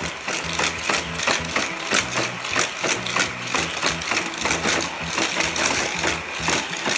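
Motorized booster of a Hot Wheels track set whirring, with small die-cast cars clicking and clattering through it about two to three times a second.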